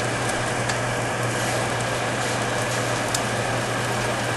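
Omelet frying in a pan on a high burner: a steady sizzle with a few sharp crackles, over a steady low hum.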